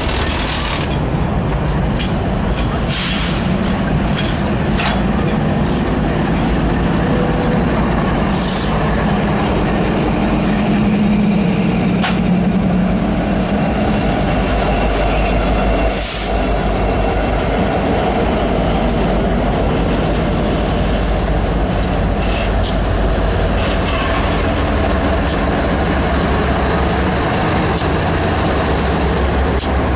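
A lashup of BNSF diesel-electric freight locomotives, among them an EMD SD70ACe and a GE Dash 9-44CW, passing at close range at the head of a double-stack train. Their engines drone steadily over the rumble of the wheels, with occasional sharp clanks.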